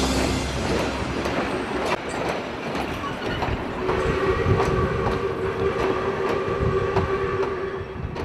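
Train running on rails, its wheels clicking over the rail joints in pairs about once a second, with a steady held tone joining about four seconds in; the sound fades near the end.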